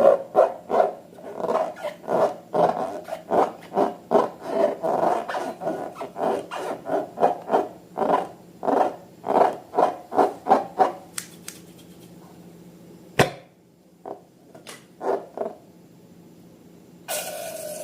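Slime being mixed, in rapid rhythmic strokes of about three a second. The strokes thin out about eleven seconds in, followed by a sharp click, a few more strokes and a short rush of noise near the end.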